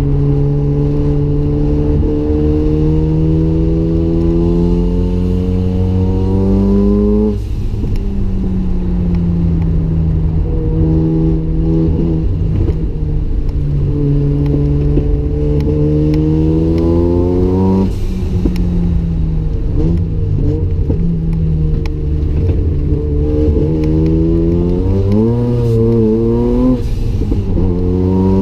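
Single-turbo Mazda RX-7's rotary engine accelerating hard around a track. Its pitch climbs for several seconds and drops suddenly, about seven seconds in and again about eighteen seconds in. After the second drop it wavers lower for a while, then climbs once more near the end.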